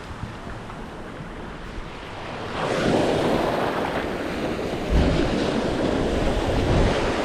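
Sea waves washing with wind buffeting the microphone; the rush of water swells louder about two and a half seconds in, with a low gust thump a couple of seconds later.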